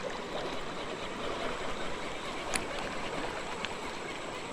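Steady rush of flowing creek water, with a sharp click about two and a half seconds in and a fainter one a second later.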